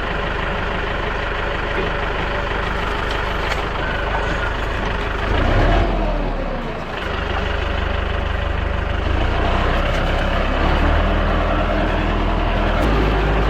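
Tractor engine running steadily, its speed dipping and then picking back up about six seconds in.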